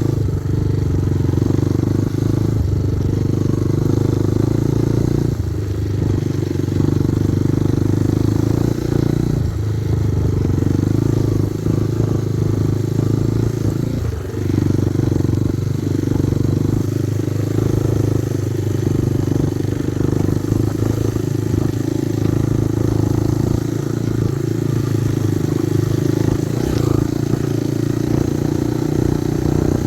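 Kovi Advance 250 motorcycle engine running steadily while riding, with a few brief dips in engine note where the throttle eases off.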